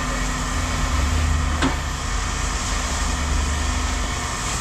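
A steady low engine hum runs throughout. A single sharp metallic clank comes about a second and a half in.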